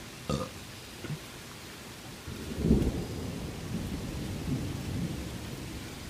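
Thunder over steady rain: a low rumble builds about two seconds in, peaks sharply, then keeps rolling unevenly while the rain hiss carries on.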